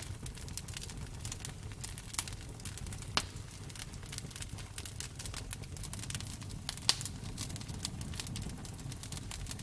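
Campfire burning: wood crackling with irregular sharp pops, a few louder snaps, over a low steady rumble of the flames.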